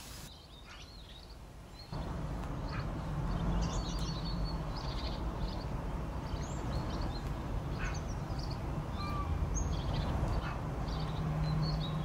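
A steady low rumble that starts abruptly about two seconds in, with short bird chirps scattered over it.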